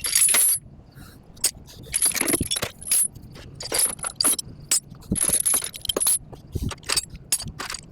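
Steel tie-down chains clinking and rattling as they are pulled out and handled, in repeated bursts of metallic jangling.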